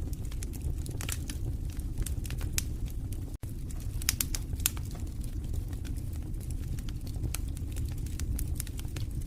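Fireplace fire crackling with frequent sharp pops over a steady low rumble of the flames. The sound cuts out for an instant about three and a half seconds in.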